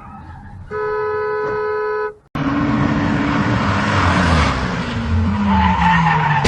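Car horn sounding one steady blast for about a second and a half. Then, after a sudden break, loud vehicle and road noise with an engine note that falls slowly in pitch.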